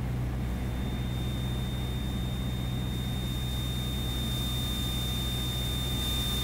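Cessna 172SP's four-cylinder Lycoming engine and propeller droning steadily in flight, heard inside the cabin. A faint, thin, high whine comes in about half a second in and holds.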